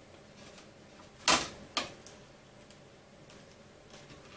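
Small metal hardware clicking as it is handled: a sharp click a bit over a second in, a second one about half a second later, then a few faint ticks, as screws, washers and springs are fitted to a 3D printer's heated bed.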